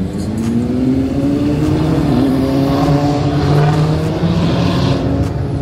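Car engine accelerating, its pitch climbing over the first two seconds, dipping briefly, then holding steadier before a small step down near the end.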